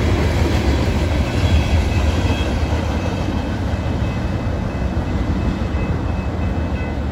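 The last cars of a freight train rolling past and away: a steady rumble of wheels on rail that slowly fades, with faint high steady tones over it.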